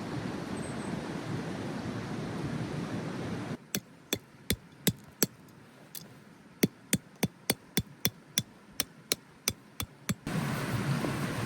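A series of about twenty sharp knocks, roughly three a second and unevenly spaced, like hammer blows, over a quiet background. Before and after the knocks there is a steady rushing noise.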